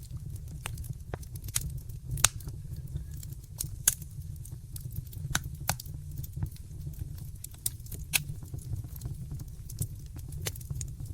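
Wood fire crackling in a fireplace: irregular sharp pops and snaps, a few strong ones among many small ones, over a steady low rumble of the flames.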